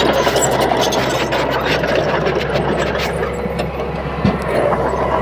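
Komatsu D31P crawler bulldozer's diesel engine running steadily under work, with scattered metallic clanks and a brief thump about four seconds in.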